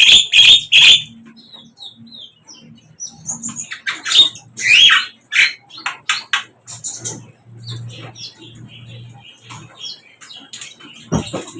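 Sikatan londo, a small flycatcher, singing: a fast run of loud repeated chirps in the first second, then quieter varied short notes and quick falling whistles.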